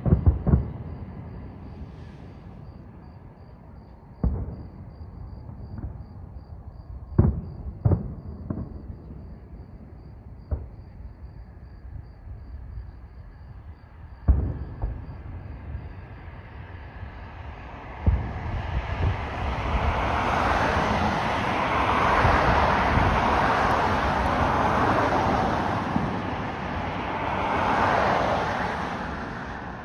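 Distant fireworks display: aerial shells bursting as single booms every few seconds. From about 18 s in, a broad rushing noise swells for roughly ten seconds, peaks twice and fades near the end.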